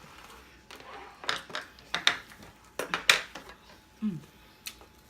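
King crab leg shell being cut open with kitchen scissors: about half a dozen sharp snips and cracks of the shell, irregularly spaced.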